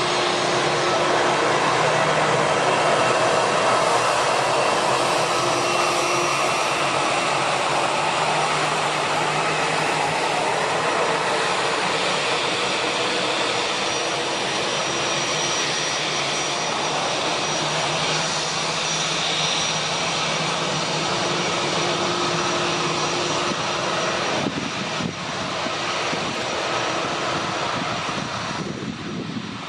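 Jet engines of a Boeing 787-9 Dreamliner running steadily: a continuous rushing noise with a faint high whine, easing slightly near the end.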